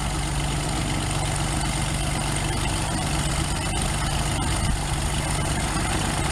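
Light aircraft's piston engine idling steadily just after start-up, with a steady low drone and a propeller hiss on top.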